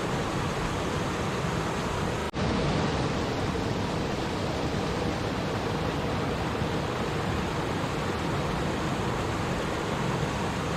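Steady rushing and babbling of flowing stream water, with a momentary break in the sound about two seconds in.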